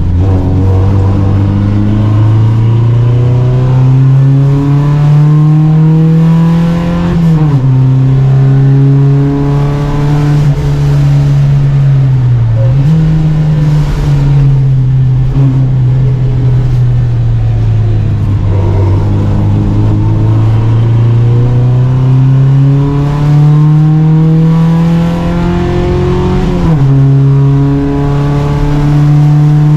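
Volvo Amazon 121's four-cylinder engine racing under full throttle. It climbs in revs, drops sharply on an upshift about seven seconds in, falls gradually while slowing for a bend, then pulls up through the revs again to a second upshift near the end.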